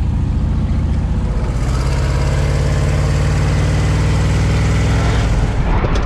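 Twin-turbo LS V8 engine pulling away under load, its note getting stronger and brighter about a second and a half in, then easing off near the end.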